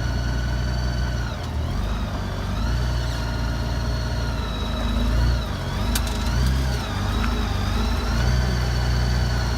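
Motorcycle engine running at low speed, its pitch dipping and rising several times as the throttle is worked while the bike is eased onto a rear motorcycle lift.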